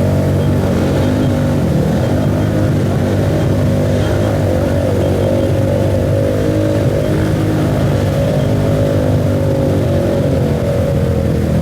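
Off-road motorcycle engines running continuously, their pitch shifting up and down a little as the throttle changes.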